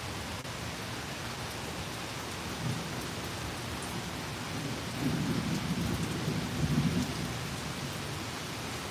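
Steady rain falling, with a low rumble of thunder that swells about five seconds in and peaks near seven seconds before fading. A brief softer rumble comes near three seconds.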